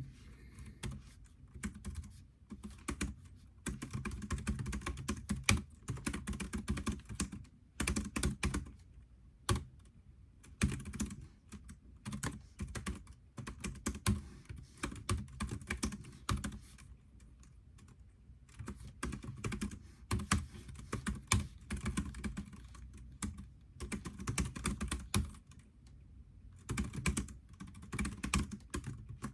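Typing on a computer keyboard in irregular bursts of rapid keystrokes, with short pauses between them.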